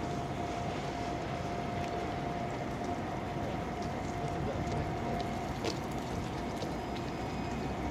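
Kintetsu train pulling away along the tracks: its steady running sound with a thin whine that fades out about five and a half seconds in, over a steady outdoor hiss and a few faint clicks.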